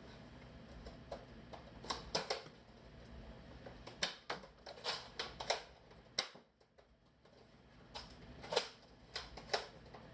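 Toy guns being fired at targets: a scattered series of sharp clicks and knocks, several in quick succession about four to six seconds in.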